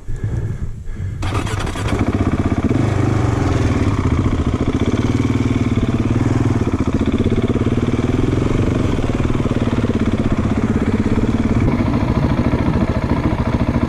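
Motorcycle engine starting up about a second in, then running steadily with a slight waver in pitch.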